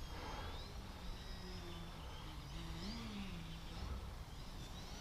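Faint outdoor ambience: birds chirping now and then over a low steady hum that briefly rises and falls in pitch about three seconds in.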